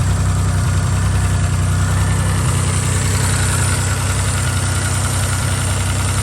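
Maserati Biturbo twin-turbo V6 idling steadily.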